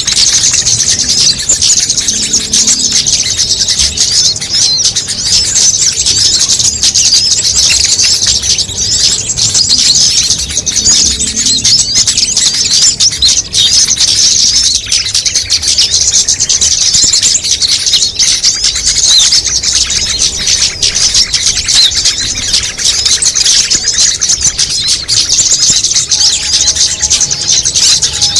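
Dense, unbroken chorus of many small songbirds' rapid, high chirps and twitters layered over one another: a mixed bird-lure recording used to draw small birds in.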